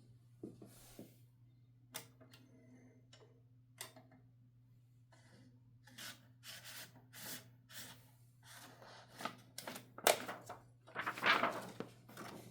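A 1969 Adler J5 manual typewriter being handled: scattered clicks and knocks at first, then a run of rubbing and rustling strokes, loudest about ten and eleven seconds in. A steady low hum runs underneath.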